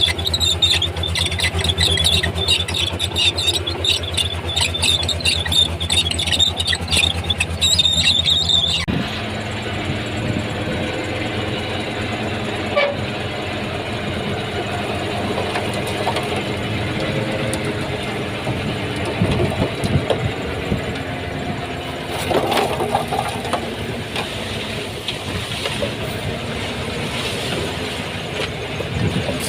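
Crawler bulldozer working: its diesel engine runs with a low throb while the steel tracks squeal in a high, stuttering screech. About nine seconds in the sound cuts to a steadier engine with occasional clanks.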